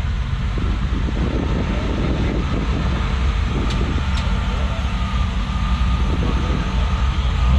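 A car engine running at low speed close by, a steady deep rumble, with two small clicks about four seconds in.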